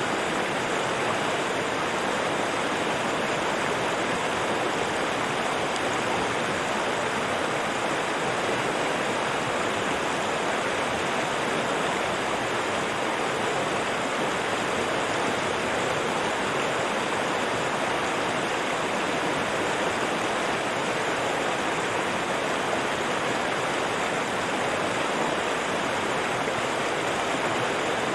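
River water rushing and splashing over rocks, a steady, even flow.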